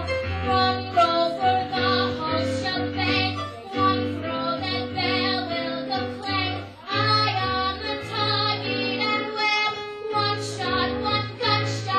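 Music: a young woman singing a show tune with instrumental accompaniment over a steady bass line.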